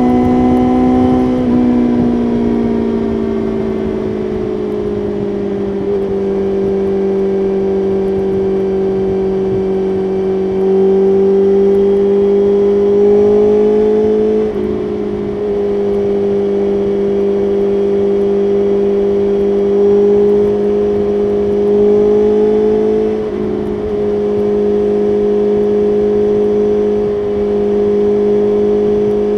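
BMW S1000RR inline-four superbike engine under way at highway speed, with wind rush. The engine note eases down over the first few seconds. It then twice climbs slowly and drops sharply, about 14 and 23 seconds in, as with upshifts.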